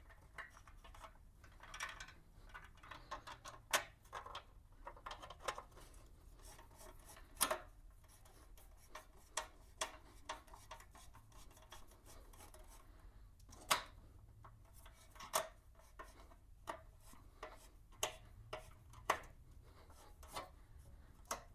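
Faint, scattered light clicks and rubbing of hand tools and small metal parts as a bolt is fitted and threaded into the motorcycle's chrome front-fork trim by hand.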